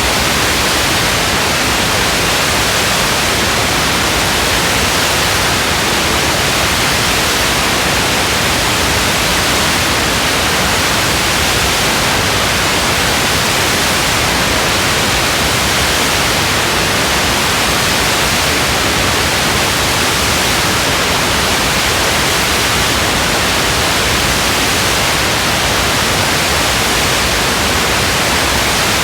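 Steady, even hiss of gentle rain, loud and unchanging, with no single drops or gusts standing out.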